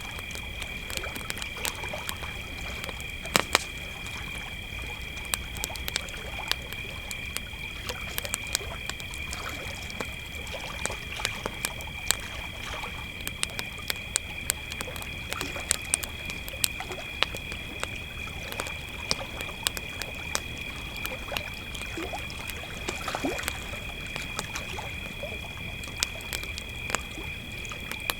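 Crickets trilling steadily at two high pitches, with frequent sharp crackles and pops from a wood campfire.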